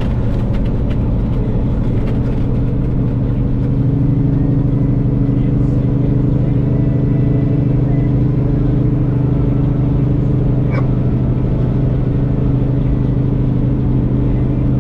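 Loaded semi truck cruising on the highway: a steady diesel engine drone over road noise, growing slightly louder about four seconds in.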